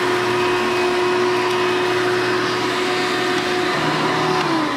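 1991 Hoover Elite Energy Efficient upright vacuum cleaner running at a steady motor whine, then switched off near the end, its pitch falling as the motor winds down.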